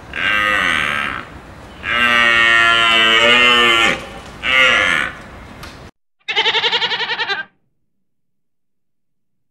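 Three drawn-out calls from a hoofed animal, the middle one about two seconds long, then about six seconds in a goat's single wavering bleat.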